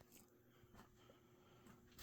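Near silence with the faint steady hum of a CEI-built Sears ceiling fan's motor running on its third speed, and a few faint clicks.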